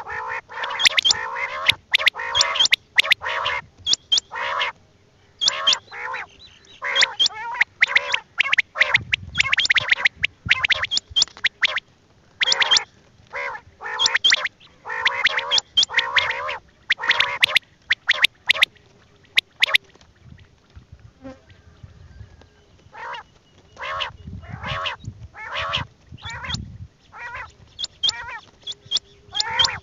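Quails calling over and over in quick runs of short, sharp notes, thinning out briefly about two-thirds of the way through.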